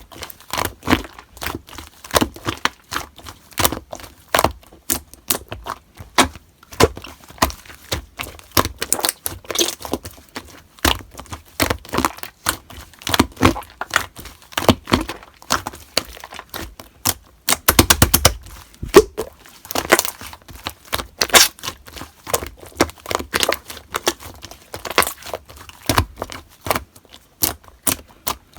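Slime being squeezed, pressed and stretched by hand, giving a continuous string of sharp, irregular popping clicks as air pockets burst, with a quick rapid run of clicks about two-thirds of the way through.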